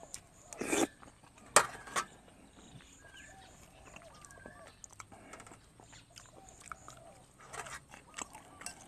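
A person eating curry from a spoon: chewing and smacking, with short loud mouth noises about a second and two seconds in and again near the end.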